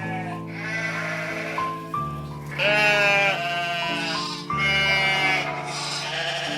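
Background music with held chords, and an animal calling three times over it, each call about a second long.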